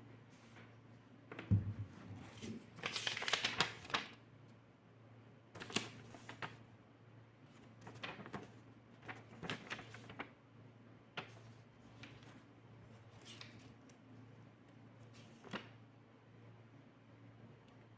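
Handling noises: a thump about a second and a half in, a rustle around three seconds, then scattered clicks and taps every second or two, over a faint low steady hum.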